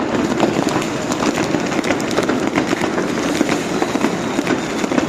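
Dense, continuous crackling of fireworks and firecrackers, with many small sharp bangs over a steady rumbling din.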